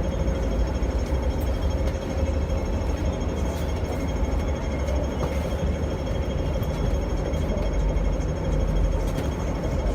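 Hong Kong double-decker tram running along its line, heard from on board: a steady low rumble of the wheels on the rails and the running gear, with a faint steady hum.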